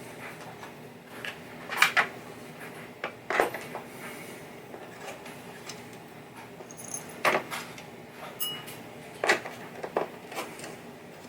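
A few sharp clinks and knocks, about five over the stretch, the loudest about two seconds in: small screws and plastic parts being taken off a pinball playfield and set down.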